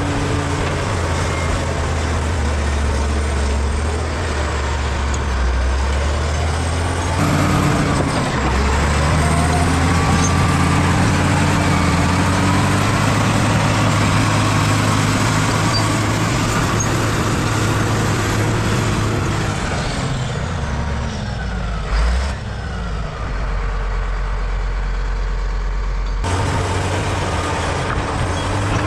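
Bulldozer's diesel engine running steadily at work, a deep hum under a broad mechanical clatter. The sound jumps abruptly to a different engine note a few times, about seven, twenty-two and twenty-six seconds in.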